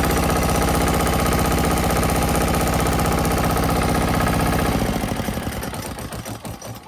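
Yanmar L100M single-cylinder air-cooled diesel engine, driving a pressure washer, running steadily at full throttle. About five seconds in, its sound slows, breaks up and dies away.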